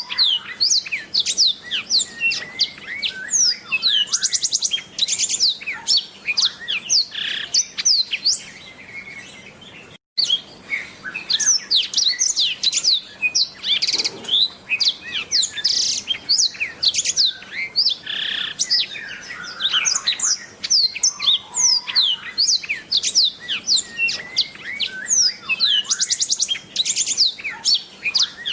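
Black-throated canary (blackthroat) singing a fast, continuous song of sharp descending whistles, chirps and rattling trills. There is a momentary break in the sound about ten seconds in.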